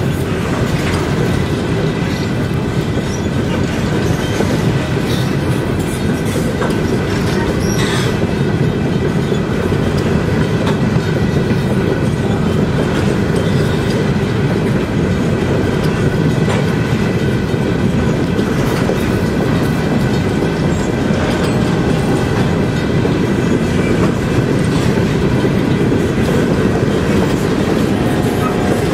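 Empty coal gondolas of a freight train rolling steadily past, a constant low rumble with steel wheels clacking over the rail joints.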